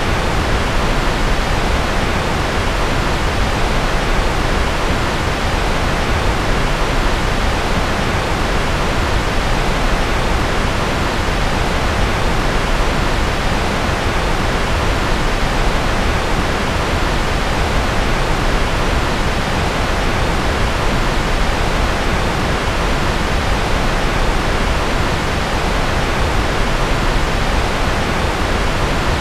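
Steady, unchanging white-noise track: an even hiss with more weight in the low and middle range than in the highs.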